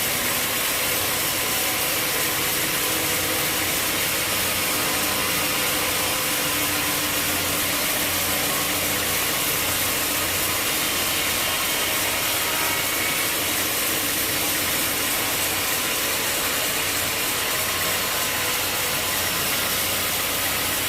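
Sawmill machinery running steadily, a dense even mechanical noise with a low hum underneath.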